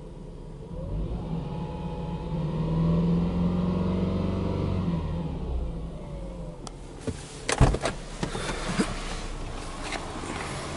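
Subaru Impreza 2.0i-S's 2.0-litre flat-four (boxer) engine blipped once in a free rev while parked, heard from inside the cabin: the pitch climbs over a couple of seconds, then sinks back to idle. In the second half it idles steadily under several sharp knocks and clatter, the loudest about seven and a half seconds in.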